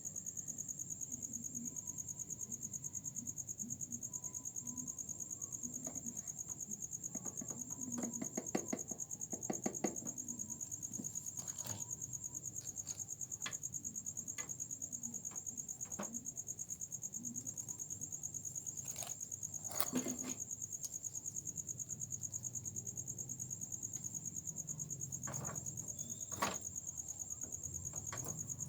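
A cricket trilling steadily, one continuous high, finely pulsing note, with scattered sharp clicks and knocks a few times over it.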